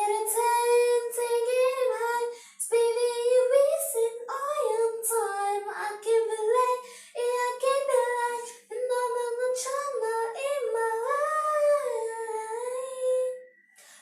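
A girl singing a song alone without accompaniment, in a high voice with long held notes, pausing briefly for breath a few times.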